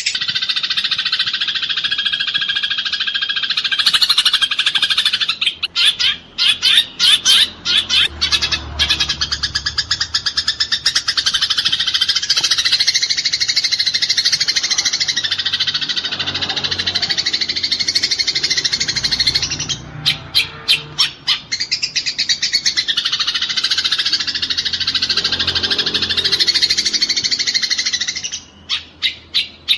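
Eurasian tree sparrows fighting: a dense, continuous chatter of rapid harsh chirps, breaking briefly into separate quick notes a few times.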